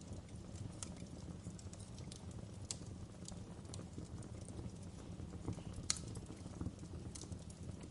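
Wood fire burning in a fireplace: a steady low rumble of flames with scattered crackles and pops, one sharper pop about six seconds in.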